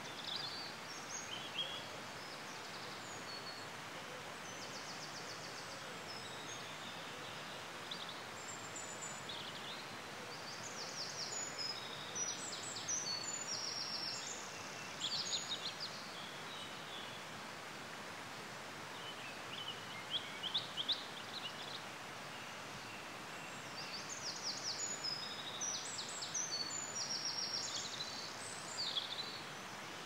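High-pitched bird chirps and short trills in scattered bursts over a steady background hiss.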